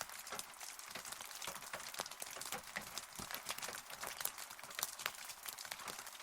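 Rain falling, a steady hiss with many separate drops striking a hard surface close by as irregular sharp ticks.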